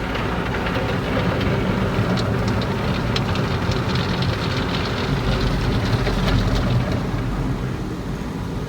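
Tunnel car wash equipment working over the car, heard from inside the closed cabin: a steady low rumble with crackling spatters that bunch up in the middle.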